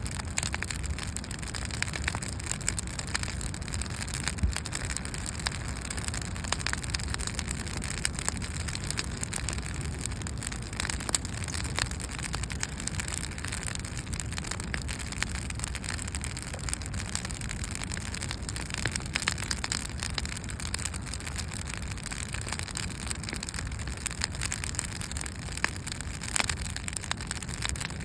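Wood campfire crackling, with frequent sharp pops and snaps over a steady low rumble.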